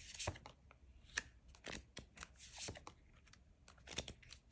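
Tarot cards being handled: a faint, irregular scatter of light clicks and short sliding rustles as the deck is shuffled and cards are drawn.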